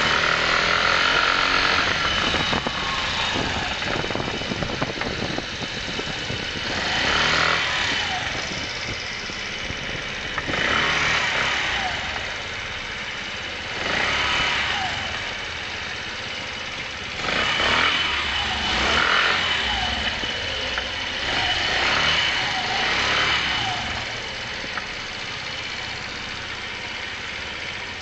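125 cc motorcycle engine being ridden, picking up revs and easing off again about every three to four seconds, with a steady high whine running underneath: the abnormal noise the rider is recording, echoing in an underground car park.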